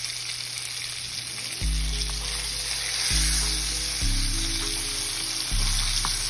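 Flour-coated chicken pieces frying in hot oil in a pan: a steady sizzle. Deep bass notes of a hip-hop instrumental come in about one and a half seconds in and repeat every second or so.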